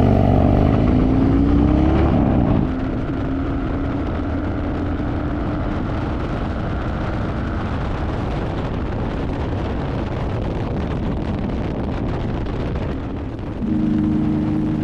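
Motorcycle engine revving up in a rising pitch for the first couple of seconds, then running at a steady cruise under an even rush of wind and road noise. Steady tones come in near the end.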